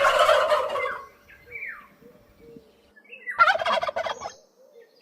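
Turkey gobbling: two rattling gobbles about three seconds apart, with short falling calls in between.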